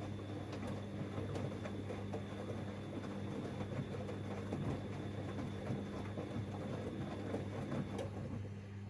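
Siemens Extraklasse XLs 140 A front-loading washing machine in its wash phase: the drum turns with a clatter of tumbling wet laundry and a thin motor whine for about eight seconds, then the motor stops with a click. A steady low hum runs underneath.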